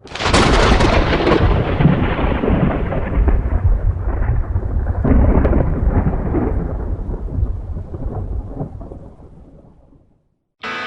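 A thunderclap with a long rolling rumble, loud at first and swelling a few times, then fading away over about ten seconds.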